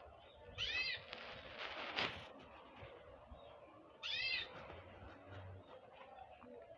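Two short, arched animal calls about three seconds apart, with a sharp click between them.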